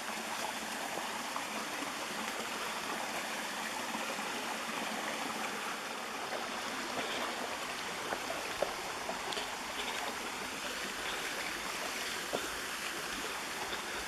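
Mountain stream running steadily over rocks, with two small knocks about two-thirds of the way through and near the end.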